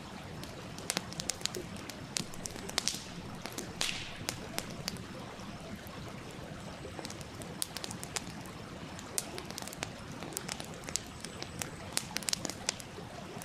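Campfire wood crackling with irregular sharp pops, over the steady rush of a stream. There are two short hisses from the fire about three and four seconds in.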